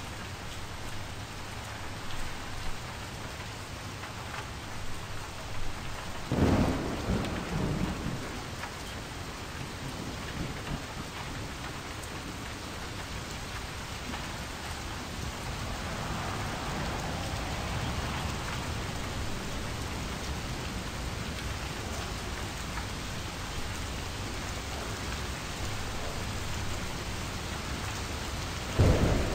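Steady rain falling, with low rumbles of thunder about six seconds in and again near the end.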